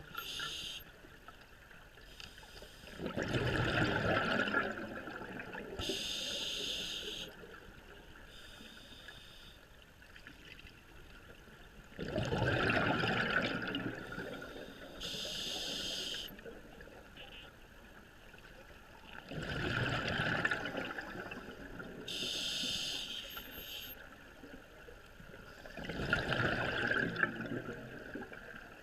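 A scuba diver breathing through an open-circuit regulator underwater: four bursts of exhaled bubbles gurgling out, each followed a couple of seconds later by the short hiss of the regulator delivering the next breath, in a slow, even rhythm.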